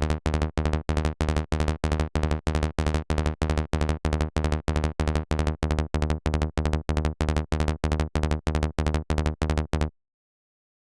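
Synthesized electronic kick-and-bass loop: short, deep notes of one pitch repeating evenly at about four a second, cutting off suddenly near the end.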